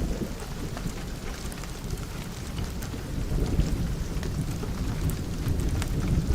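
Steady rain on a window under a continuous low rolling rumble of thunder, with many small sharp ticks scattered through it.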